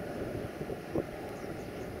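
Low, steady rumble of a train rolling past, with a single knock about a second in.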